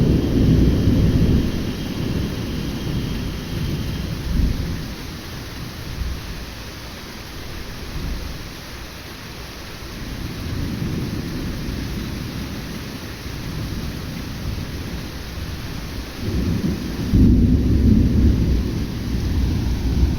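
Thunder rumbling over steady heavy rain. The rumble is loud at first, dies away through the middle, and swells again near the end.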